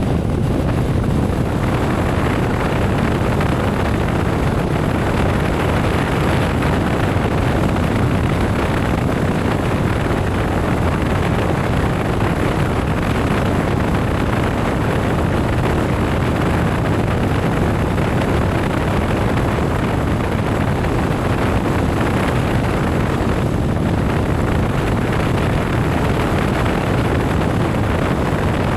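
Steady rush of wind on the microphone mixed with motorcycle engine and road noise while riding.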